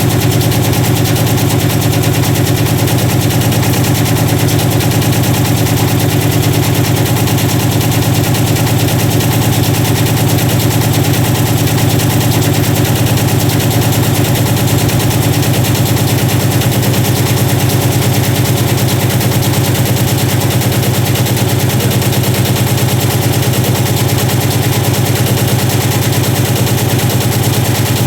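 Washing machine running with a stone loose in its drum: a loud, rapid, unbroken clatter of the stone hammering against the drum over the hum of the machine.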